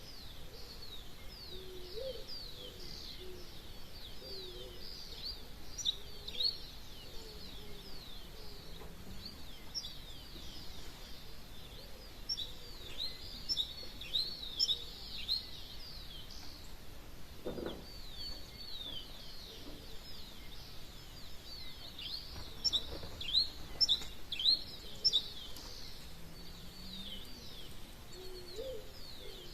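Dawn chorus of many small birds: a dense, overlapping stream of short, high, downward-sweeping chirps, with a few louder chirps about two-thirds of the way through. Lower-pitched wavering calls come in now and then.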